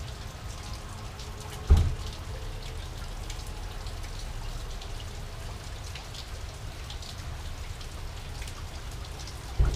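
Heavy rain falling steadily on wet concrete and lawn, a continuous hiss flecked with individual drop splashes. Two dull low thumps stand out, one about two seconds in and one near the end.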